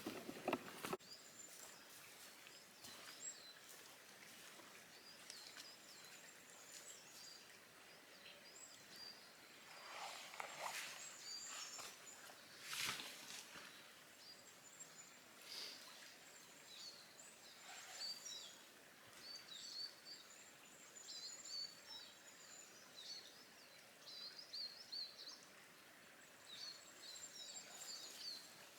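Faint, high-pitched chirping of small birds: many short calls scattered throughout, with a few brief rustles around the middle.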